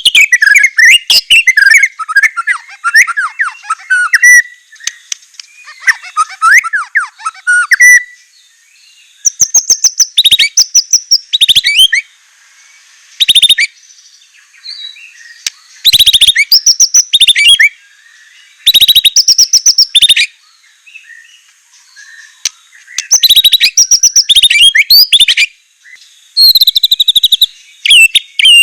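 White-rumped shama singing a loud, varied song full of mimicked phrases, delivered in bursts of rapid whistles and trills with short pauses between them.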